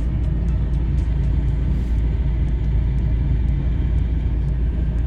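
Steady low rumble of a car driving slowly, heard from inside the cabin, with a faint, regular high ticking running through it.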